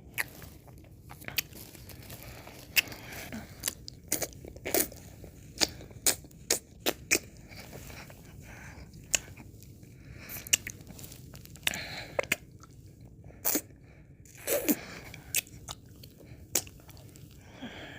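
Close-miked mouth sounds of someone eating ice cream: irregular wet smacks and clicks, with a few longer, softer licks.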